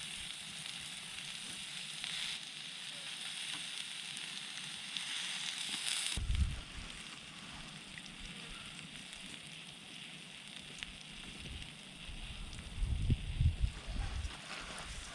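Food sizzling on a thick steel griddle plate over a campfire: a dense, steady frying hiss that cuts off abruptly about six seconds in, leaving fainter outdoor sound with occasional low rumbles.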